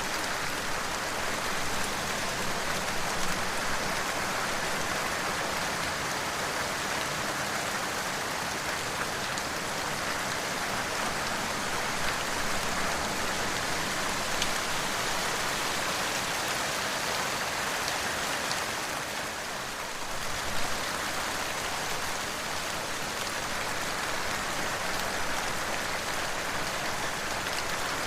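Steady, dense rainfall pattering on surfaces, easing briefly about two-thirds of the way through before picking up again.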